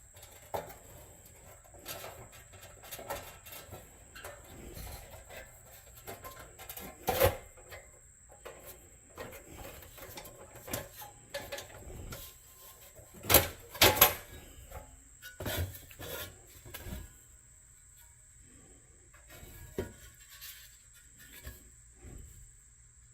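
Scattered clicks and knocks of a rusty toy truck being handled during restoration, with a louder knock about seven seconds in and a few sharp knocks close together around thirteen to fourteen seconds.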